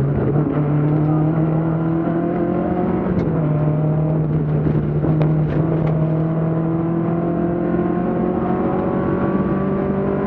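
BMW 2002 Ti rally car's four-cylinder engine under hard acceleration, heard onboard. The engine note climbs slowly, with short drops in pitch about three and six seconds in, over road and wind noise and a few sharp ticks.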